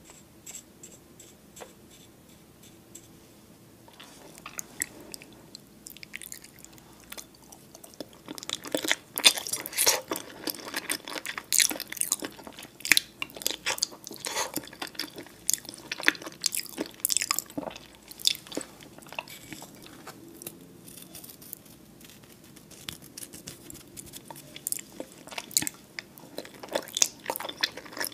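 Close-miked chewing of a soft-boiled egg, with dense wet clicking mouth sounds. It starts with a few faint taps, turns loudest from about eight seconds in, eases off, and picks up again near the end.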